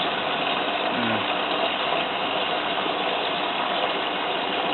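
Bosch WFF2000 front-loading washing machine filling with water for its first rinse: a steady rush of inflowing water, with the water level in the drum still too low to be seen.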